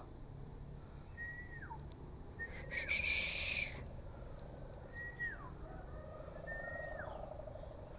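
A bird gives a short whistle that slides down in pitch, four times a second or two apart. About three seconds in, a hiss lasting about a second is the loudest sound.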